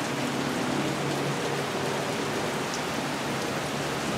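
Heavy rain falling steadily on pavement and parked cars, an even, constant hiss with a faint low hum underneath.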